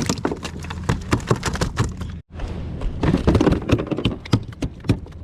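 Quick irregular knocks and taps from a freshly landed tautog being handled in the boat, over a steady low hum. The sound drops out briefly about two seconds in.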